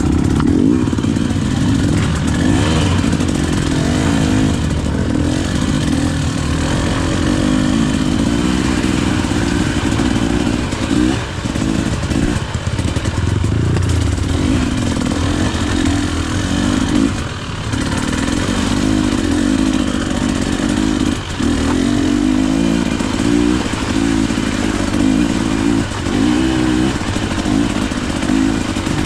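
KTM EXC 300 two-stroke enduro motorcycle engine running under constantly changing throttle while riding off-road, with the revs dropping briefly a few times as the throttle is chopped.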